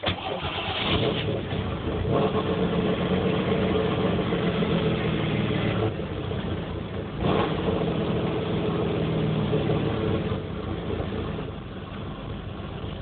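1994 Chevrolet Camaro's 3.4 L V6 starting up again and running with a rough, lopey idle like an aftermarket camshaft. Its note falters about six seconds in and picks up again a second later. The engine is running rich for a reason the owner can't find.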